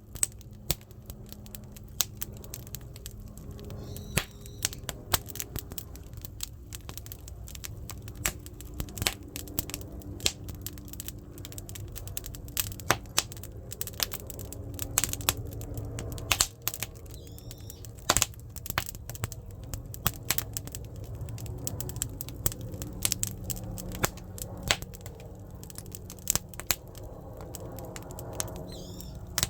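Firewood burning in a traditional Korean clay hearth (buttumak): dense, irregular crackling and sharp pops over the steady low rumble of the fire.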